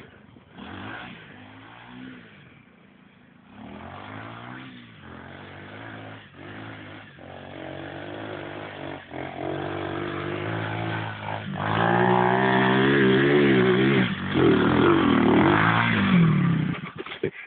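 Stomp 110 pit bike's small single-cylinder four-stroke engine revving up and down under load on a hill climb, with repeated brief dips in revs. It grows much louder near the end at high revs, then cuts off suddenly.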